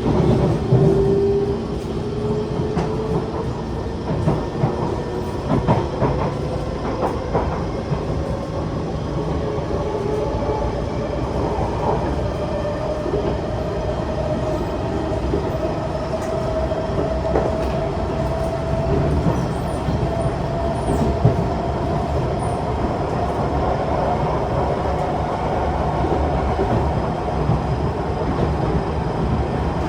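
Kawasaki C151 metro train under way, its traction motors giving a whine that rises slowly and steadily in pitch as the train gathers speed, over a steady rumble of wheels on rail. A few clicks come over track joints a few seconds in.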